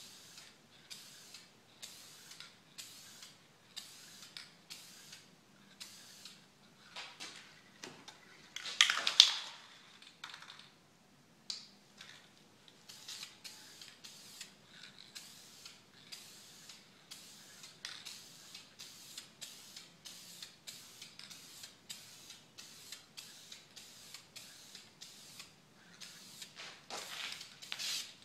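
Aerosol spray-paint can spraying red paint onto foam, heard as short hisses coming about twice a second, with a longer, louder spray about nine seconds in and another near the end.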